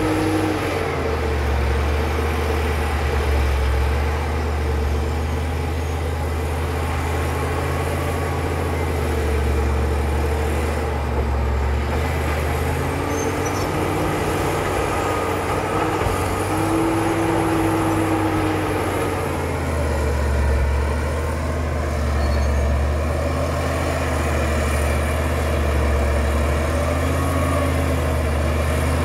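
Caterpillar D7 bulldozer's diesel engine running steadily with a heavy low drone, while a higher whining tone now and then slides up and down over it.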